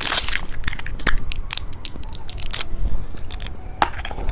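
Hard candy crunched close to the microphone: a run of sharp crunching clicks, thick at first and then sparser.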